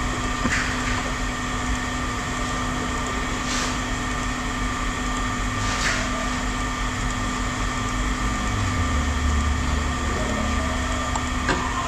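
Steady mechanical hum of an engine or machine running, with a few light clinks and knocks; a deeper rumble comes in and grows louder over the last few seconds.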